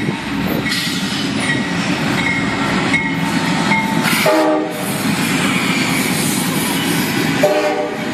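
Diesel freight train passing close by, its cars rumbling and clattering steadily, with the locomotive's air horn sounding a short blast about four seconds in and another starting near the end. A faint high ding repeats about every three-quarters of a second through the first half.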